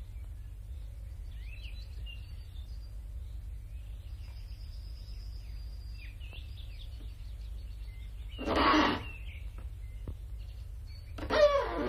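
Birds chirping faintly over a steady low hum. About two-thirds in there is one short loud sound, and near the end another whose pitch falls.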